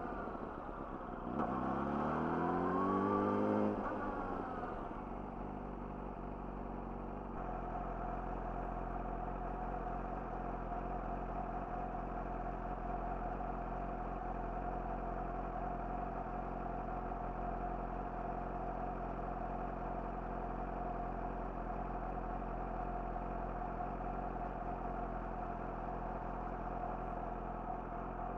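Yamaha YZF-R6's inline-four engine through an Akrapovic slip-on exhaust, revving up with a rising note about a second and a half in, then backing off. It then settles into a steady, even note for the rest of the time.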